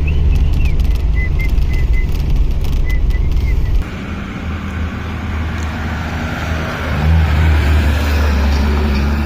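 A Hyundai sedan driving, with a steady low engine and road drone. About four seconds in the sound changes abruptly to a rougher rush of tyre and road noise over a low rumble.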